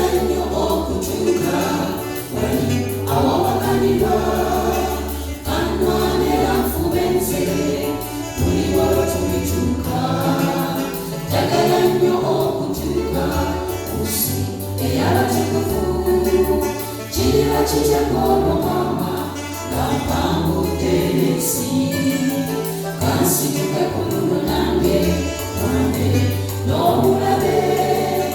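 Choir singing a gospel song with keyboard and bass accompaniment and light percussion.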